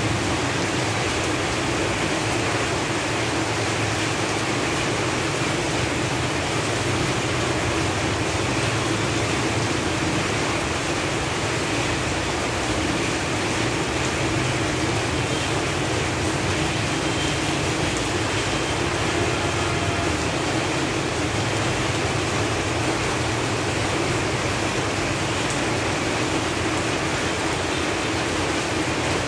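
Steady rain falling on leaves: a dense, even hiss of drops that holds at the same level throughout.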